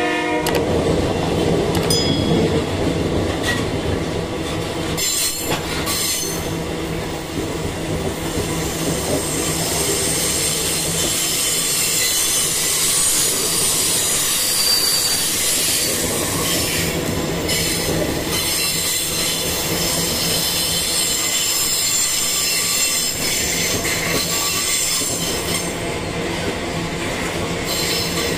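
Iron ore freight train's wagons rolling past on a curve: steel wheels squealing against the rails over a steady rumble and clatter of the wagons. The squeal is strongest about halfway through.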